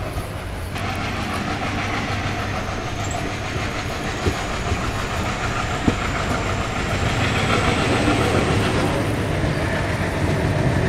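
Passenger train coach running along the track, heard from its open doorway: a steady rumble of wheels on rails with a few sharp clicks, growing slightly louder.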